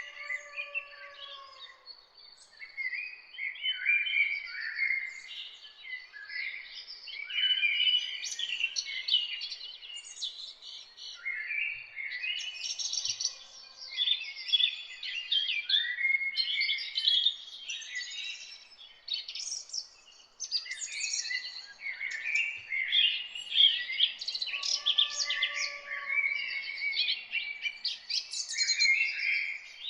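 A chorus of several wild songbirds singing and chirping, with rapid overlapping trills and twitters in bursts of song. A lower, drawn-out whistled call sounds at the start and again about 25 seconds in.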